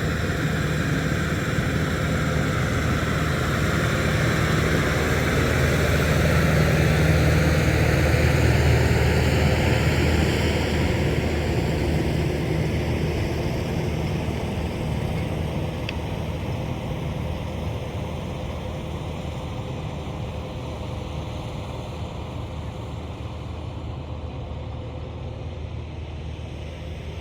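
Tractor engine running steadily, growing louder for the first third or so and then slowly fading.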